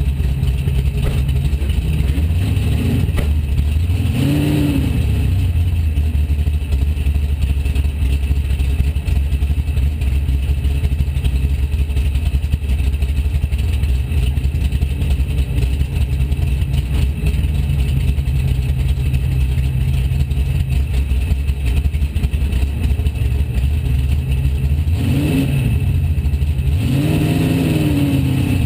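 Race car engine idling, heard from inside the cabin, blipped up and back down once about four seconds in and twice near the end.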